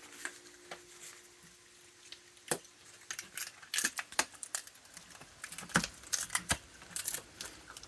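Raccoons cracking peanut shells and chewing: an irregular patter of sharp clicks and crackles that comes thicker in the second half.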